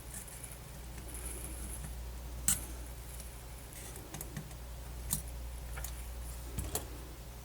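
Several sharp small clicks and taps from handling and fitting small parts of a MiniDisc player's casing, the loudest about two and a half seconds in, over a steady low electrical hum.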